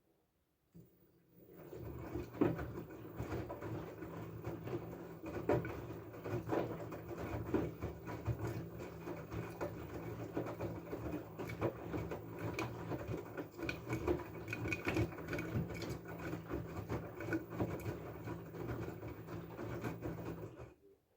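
LG F12A8ND front-loading washing machine turning its drum during the wash: the direct-drive motor's steady low hum with irregular knocks from the tumbling laundry. It starts about a second in and stops abruptly shortly before the end, one tumble run of about twenty seconds.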